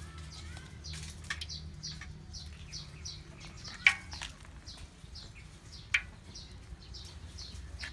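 A small bird chirping over and over, short high chirps that fall in pitch, about two a second. Two sharp clicks stand out, about four and six seconds in.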